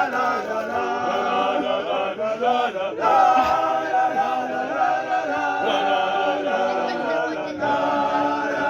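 Background music: a choir of many voices singing a worship song.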